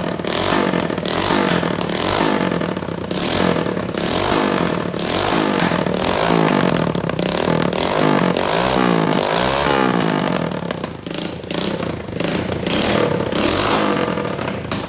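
Cheap pit bike's small engine revved hard again and again, its pitch climbing and dropping with each rev.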